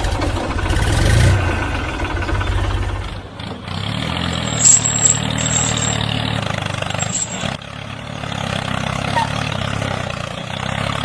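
Tractor engine idling with a steady low throbbing beat, with a few brief high chirps near the middle.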